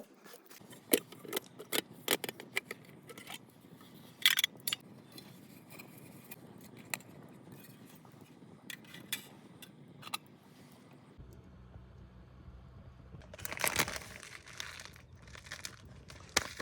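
Sparse, irregular small clicks and light clinks, with a short louder rustling burst about three-quarters of the way through.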